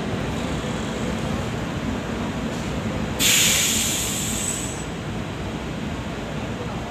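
Rajdhani Express LHB coaches rolling slowly past on departure, a steady rumble of wheels on the track. About three seconds in, a sudden loud hiss breaks out and fades away over about a second and a half.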